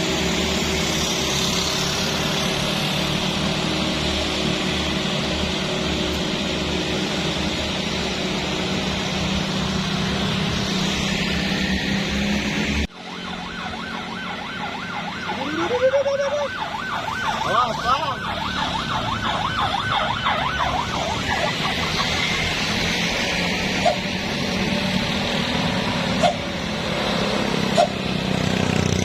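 Heavy truck engine running steadily under load. An abrupt break comes about 13 s in, followed by a rising siren-like tone that turns into a warbling for several seconds, over passing traffic, with a few short sharp sounds near the end.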